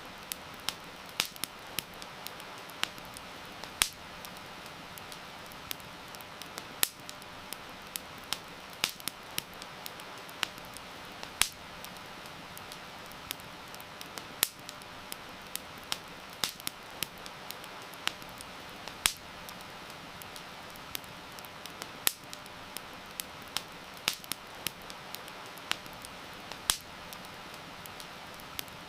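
Wood fire crackling, with irregular sharp pops several times a second, over a steady hiss of heavy rain.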